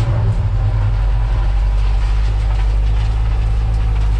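Case 521 wheel loader's diesel engine running steadily, a constant low drone.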